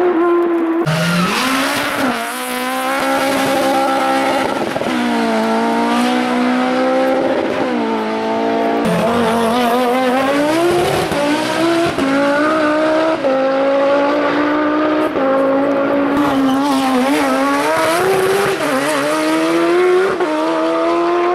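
Rally car engine driven hard, the revs climbing and dropping sharply again and again as the driver shifts gears and lifts for corners.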